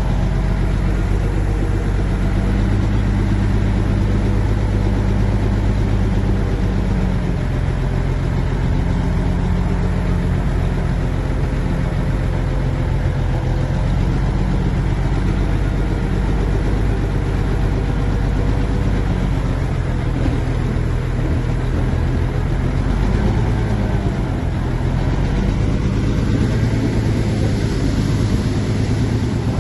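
Heavy diesel engine of earthmoving machinery running steadily, its pitch shifting slightly now and then as the load changes.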